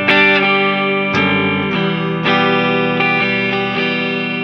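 Gibson ES-335 semi-hollow electric guitar strumming chords, a new strum every half second to a second, each chord ringing on into the next.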